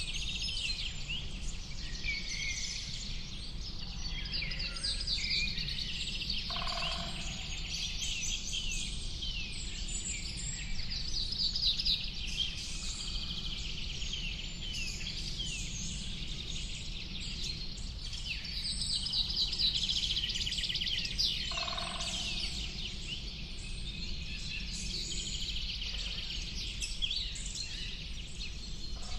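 A chorus of songbirds chirping and trilling, with rapid trills recurring every few seconds and a lower short call heard twice. A steady low noise runs underneath.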